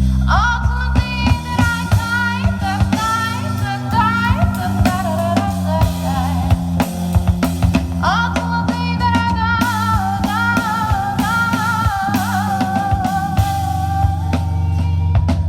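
Live band playing a song: drum kit hits over a sustained bass, with a wavering high melody line on top. Near the end the drums drop away and a low note is held.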